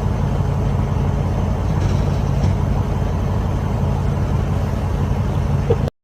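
Motor vehicle engine and road noise: a steady low rumble with a constant hum, which cuts off suddenly near the end.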